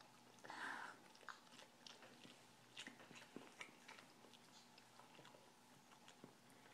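Faint wet chewing and lip-smacking of a toddler eating spaghetti by hand: many small irregular clicks, with a brief louder noise about half a second in.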